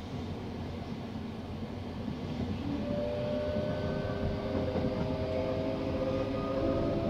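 Running noise of a moving train heard from inside the carriage: a steady rumble of wheels on track, joined about three seconds in by a faint whine that slowly rises in pitch.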